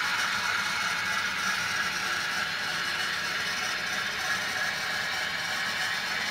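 OO gauge model diesel locomotive running on the layout: a steady mechanical running noise of model wheels on track and motor, with no clear change in the sound.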